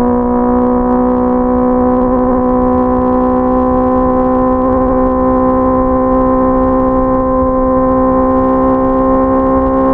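Honda CBR650R's inline-four engine running at steady high revs under way, a loud even drone whose pitch creeps slowly upward.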